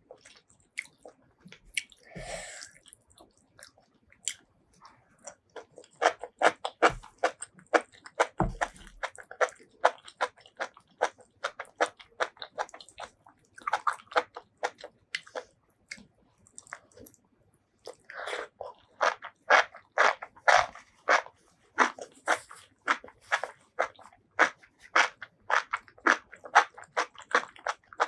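Close-miked chewing of food: rapid, wet, crunchy bites and chews in quick succession. It starts properly about six seconds in, with a brief lull a little past the middle.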